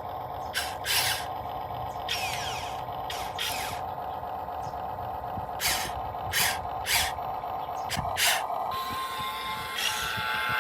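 Huina 1592 RC excavator's electric track motors and gearboxes whining steadily as it climbs a slope, with about eight short scraping hisses scattered through.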